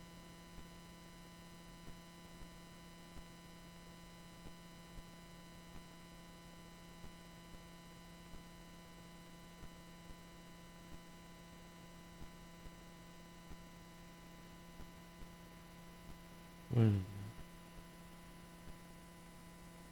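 Steady low electrical hum with a ladder of faint overtones, in an otherwise quiet pause. A brief voice sound comes about 17 seconds in.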